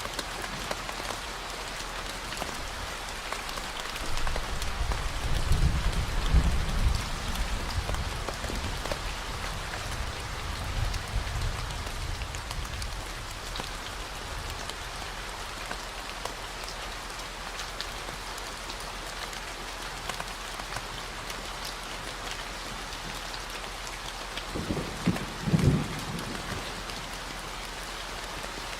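Steady rain falling, over a constant 40 Hz low hum. Thunder rumbles in for several seconds about four seconds in, and a shorter, sharper rumble comes near the end.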